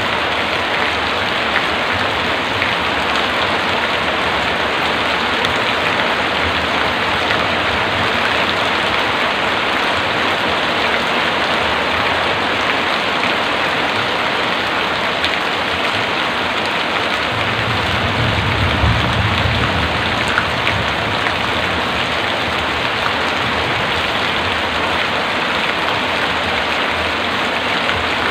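Heavy rain falling steadily, a dense even hiss of drops on surfaces. About two-thirds of the way through, a low rumble swells for a few seconds and fades.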